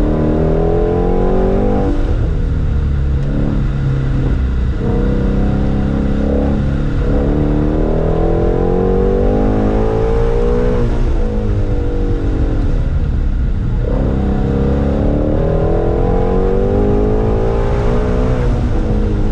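Sports car engine heard from inside the cabin, pulling hard and easing off as the car runs an autocross course. Its pitch climbs and then drops about half a dozen times, as the driver accelerates between cones, shifts and lifts for the turns.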